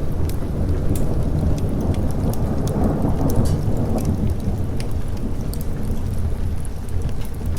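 Rolling thunder swelling to a peak about three seconds in and then fading, over steady rain, with the sharp crackle of a wood fire throughout.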